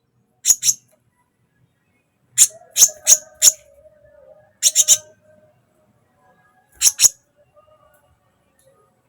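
Sunbird giving short, sharp, high-pitched chirps in quick clusters of two to four, about eleven in all. A faint steady tone runs under the middle clusters.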